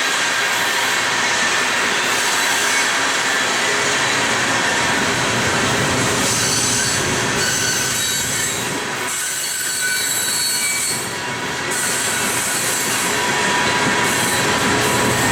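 Freight train coal cars rolling past at track level, steel wheels squealing against the rails over a steady rumble of the train.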